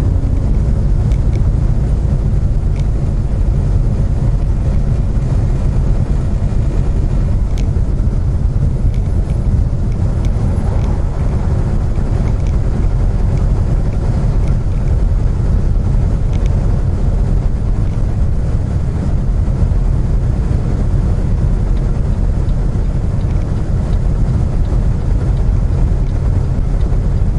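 Steady low rumble of a semi-truck's diesel engine and road noise, heard inside the cab while the truck pulls up a mountain grade.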